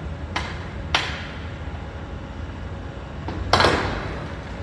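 Demolition work: three sharp crashes, the last and loudest a little past three seconds in, trailing off briefly, over a steady low rumble.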